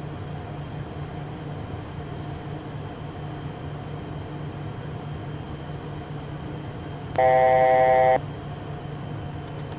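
Steady cockpit noise of a Beechcraft Premier jet on approach, with a loud electronic tone lasting about a second near the end.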